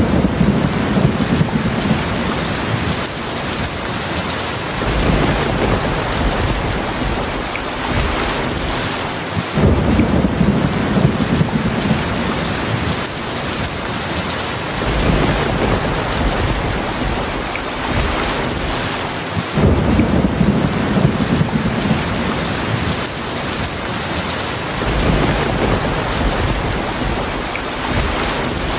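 Heavy rain falling steadily, with low rumbles of thunder swelling up and fading about every five seconds.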